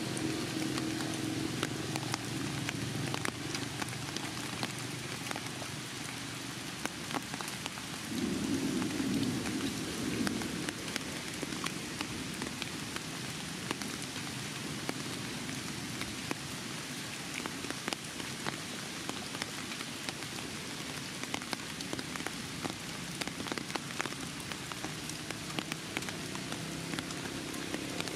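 Steady patter of rain with many scattered sharp drop ticks, over a low hum that swells briefly about eight to ten seconds in.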